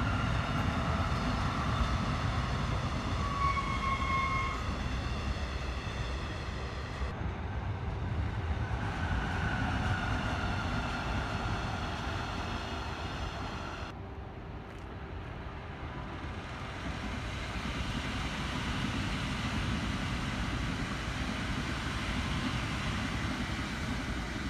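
Passenger train passing close by: a steady rumble of wheels on the rails with high whining tones over it.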